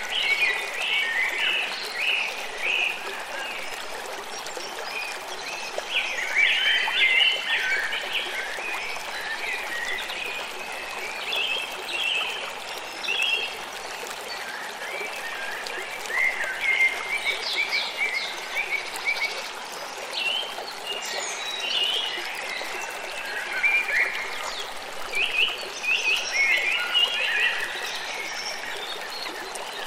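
Forest river flowing steadily, with bursts of quick, high chirping calls coming and going every few seconds.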